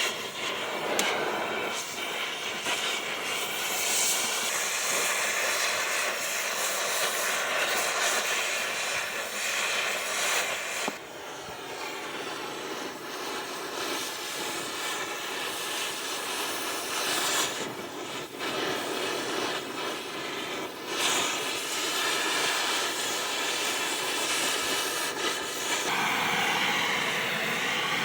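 Oxy-acetylene cutting torch burning through old truck-body steel with a steady hissing roar. It drops in level about eleven seconds in and changes tone again near the end.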